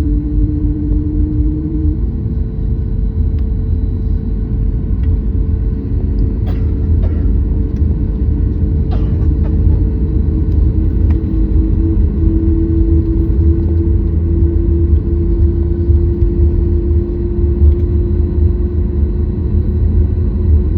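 Cabin noise inside a Boeing 737 MAX 8: a steady low rumble with a humming tone that shifts about two seconds in and rises a step around twelve seconds in, and a few faint clicks in the middle.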